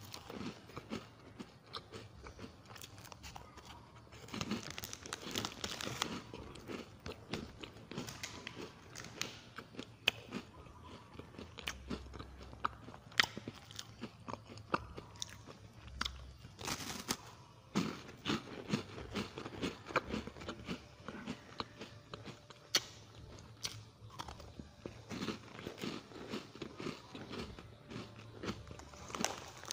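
A person chewing chocolate-coated wafer snack bars with many small, irregular crunches of the crisp wafer.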